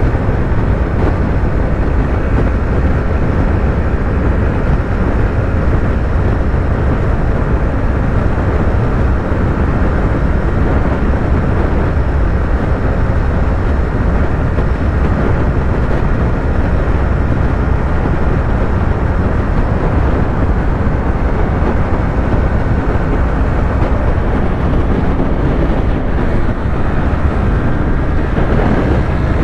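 Yamaha YZF-R3's parallel-twin engine running steadily at highway speed under heavy low wind rush. Near the end the engine note climbs slightly.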